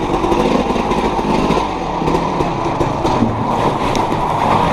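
Small engine of an off-road vehicle running, loud and steady.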